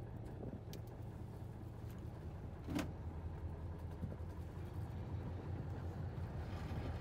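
Fishing boat's engine running with a steady low hum, and one sharp knock about three seconds in.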